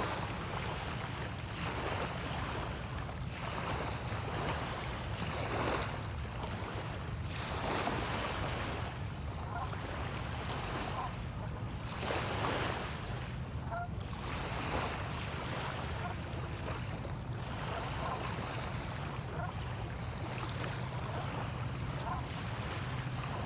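Small waves breaking and washing onto a bay shore, a surge every second or two, over a steady low rumble.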